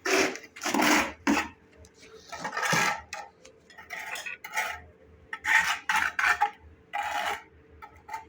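A thin steel pointing spatula scraping mortar into the joints between bricks, in a series of short, uneven scraping strokes with light metallic clinks.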